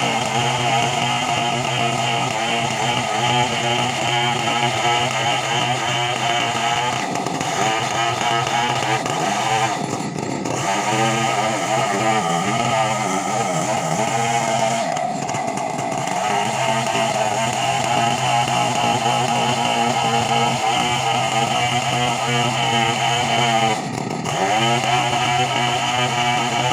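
Two-stroke chainsaw running at high revs, its pitch dipping and coming back up several times.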